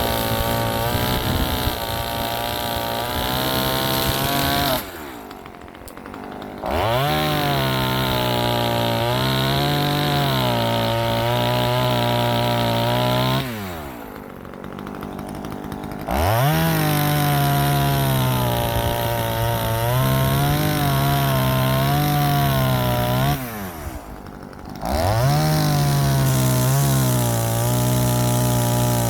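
Ozito 25.4cc top-handle two-stroke chainsaw running at high revs, its pitch wavering. Three times the throttle drops back toward idle and the engine then revs sharply back up.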